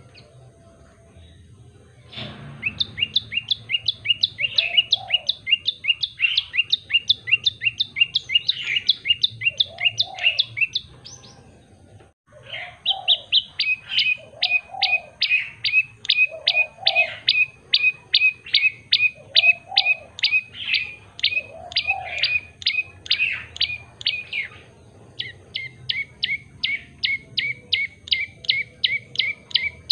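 Tailorbird (prenjak lumut) singing a fast, loud series of sharp repeated chirps, about four or five a second, in long bouts with short breaks. A softer, lower call recurs every couple of seconds underneath.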